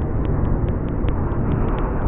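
Freight train rolling past close by: a steady low rumble of the passing cars, heavily mixed with wind buffeting the microphone, with faint irregular light ticks.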